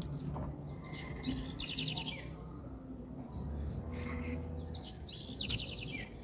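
A bird calling twice, about four seconds apart: each call is a quick rattling trill followed by a short falling note.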